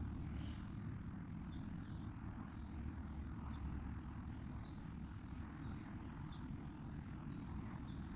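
Steady low vehicle rumble, with a faint higher hiss that swells about every two seconds.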